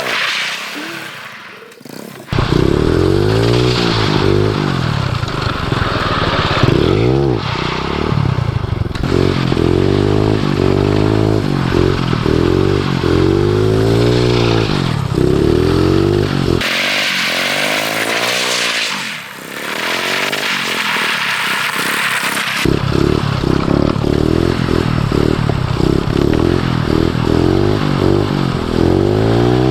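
Small single-cylinder pit-bike engine on a drift trike revving up and down over and over as it is ridden through slides. For several seconds around the middle the engine's low end drops away and a steady hiss comes up over it.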